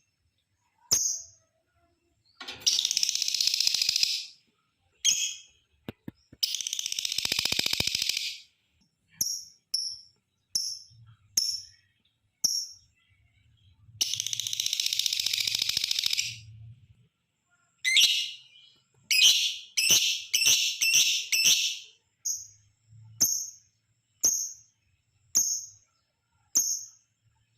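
Lovebird calling: sharp, shrill single chirps about once a second, broken three times by long rapid chattering runs lasting about two seconds each (the 'ngekek panjang'), with a quick cluster of calls near the end.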